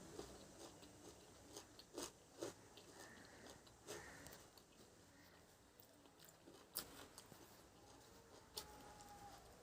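Faint sounds of a person chewing food, with scattered short wet clicks and smacks of the mouth.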